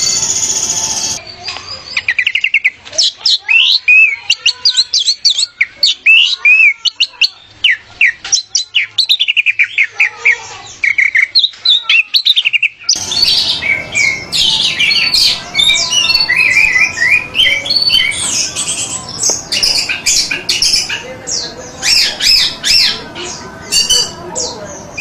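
Orange-headed thrush singing: rapid, varied whistled and chattering phrases, played as spliced recordings that change abruptly about a second in and again about halfway through, where the song becomes denser.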